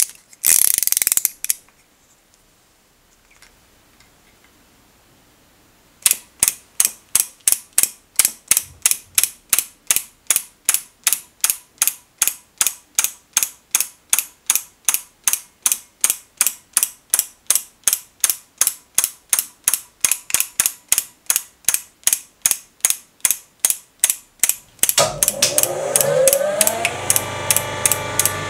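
Mechanical clicking like a ratchet or clockwork, evenly spaced at about three clicks a second. Near the end it gives way to a louder continuous whirring with sliding tones.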